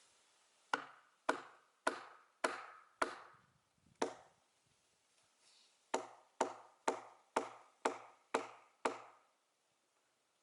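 Sharp blows of a splitting tool struck at an oak log being split, about two a second. Six blows come first, the last after a short gap, then seven more after a pause of about two seconds.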